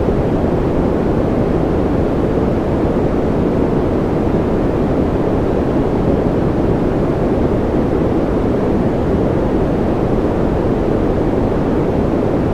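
Steady white-noise track for sleep: an unbroken, even rushing hiss that sits deep, with most of its weight in the low and middle range and the treble rolled off. It does not change at all.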